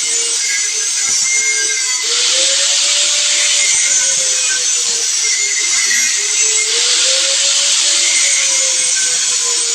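Power tool motor running continuously with a hissing, grinding noise and a whine whose pitch slowly rises and falls about every four to five seconds.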